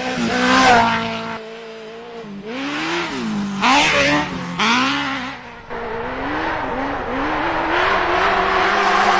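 Suzuki GSX-R1000 inline-four motorcycle engine being revved hard and let off, its pitch rising and falling several times in quick succession through the middle of the stretch, then holding a steadier, louder pull near the end.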